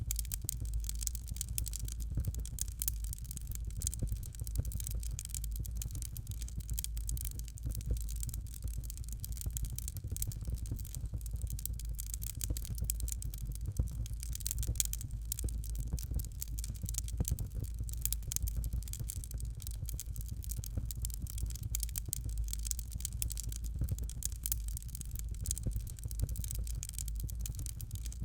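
Fireplace fire crackling steadily: a dense run of small, sharp crackles over a low rumble.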